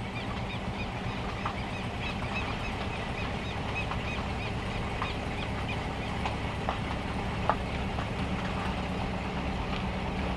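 Heavy rain on the van's metal roof: a steady low rumble with scattered sharp drop ticks, one louder tick about seven and a half seconds in.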